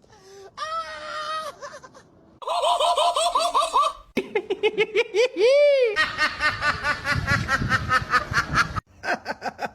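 People laughing in quick repeated bursts, in several short stretches that break off abruptly one after another. A single rising-then-falling cry comes about five and a half seconds in.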